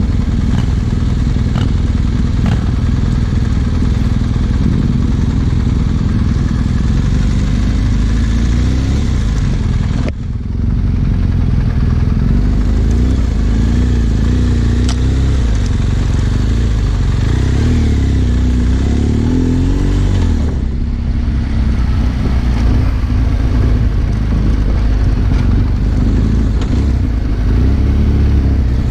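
Trail motorcycle engine running while riding, its pitch rising and falling as the throttle opens and closes. Its level dips briefly about ten seconds in, and the sound changes again around twenty seconds.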